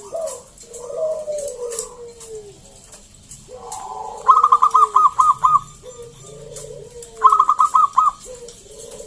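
Perkutut (zebra dove) cooing: repeated falling coo notes, with two loud bursts of quick, higher-pitched notes about four and seven seconds in.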